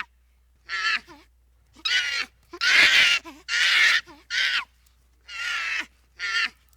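An animal's harsh calls, about seven in a row, each under a second long with short gaps between them.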